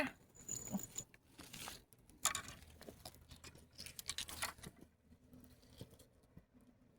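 Faint, scattered tapping, scraping and rustling, with a louder scrape about two seconds in and another cluster about four seconds in.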